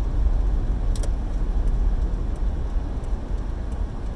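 Car driving up a snowy hill: a steady low rumble of engine and tyres on the road.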